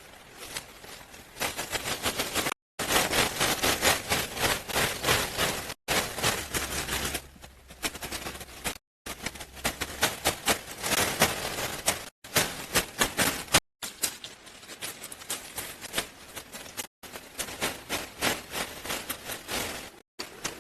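Rapid clicks, knocks and scraping from hands-on work with tools and materials, in short clips that cut off abruptly every few seconds.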